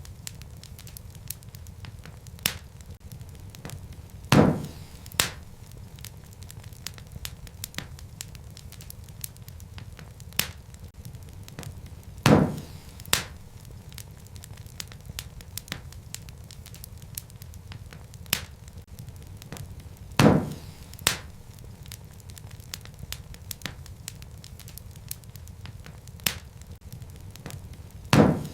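Wood fire burning in a fireplace: a steady low rumble of flames with frequent small crackles. Louder pops from the burning logs come about every eight seconds, each followed by a smaller pop a moment later.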